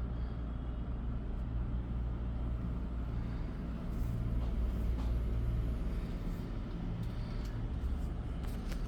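A steady low mechanical rumble, like an engine running, with a few faint clicks.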